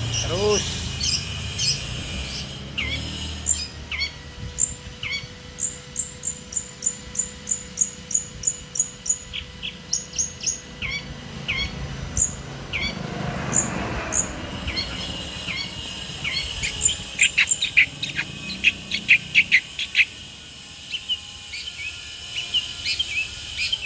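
Long-tailed shrike (pentet) singing: strings of short, sharp high chirps repeated about two a second, then a louder rapid volley of notes in the second half. Its song carries the tengkek buto (kingfisher) imitation that contest keepers prize in this bird.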